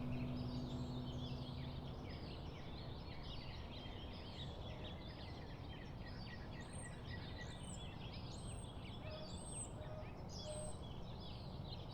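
Small wild birds chirping and calling in a busy, overlapping chorus. In the second half, one bird gives a run of about five high, arched notes, each roughly half a second apart.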